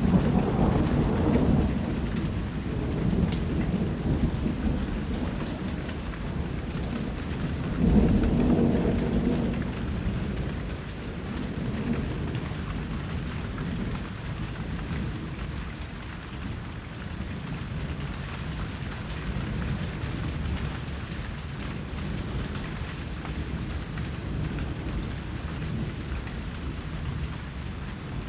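Steady rain with low rolls of thunder, one at the start and another about eight seconds in. After that the rain carries on alone.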